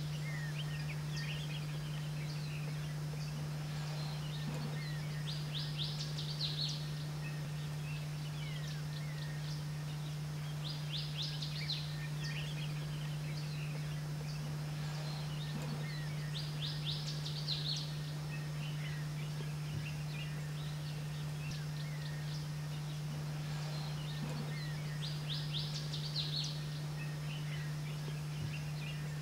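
Small songbirds calling. One repeats a short, rapid high trill about every five to six seconds, with scattered chirps in between, over a steady low hum.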